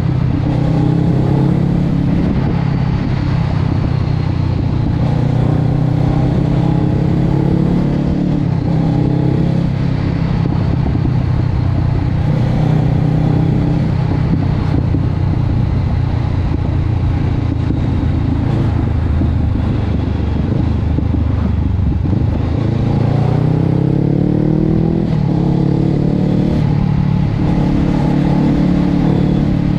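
Honda CB500X's parallel-twin engine running through a Termignoni aftermarket exhaust, its pitch rising and falling with the throttle. There is a long climb in revs about three-quarters of the way through.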